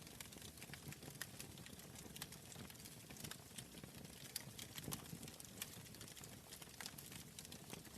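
Wood fire crackling in a fireplace: faint, irregular sharp pops and snaps over a soft low rumble of the flames.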